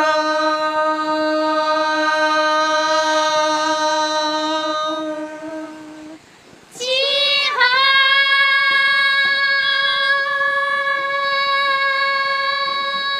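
Unaccompanied high singing voice holding two long notes: the first for about six seconds, then, after a brief breath, a higher note slid into and held steadily.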